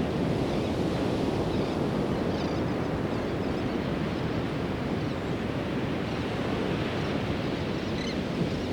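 Pacific Ocean surf washing steadily onto a sandy beach, an even wash of sound with no single wave standing out. A few faint, short high chirps come near the end.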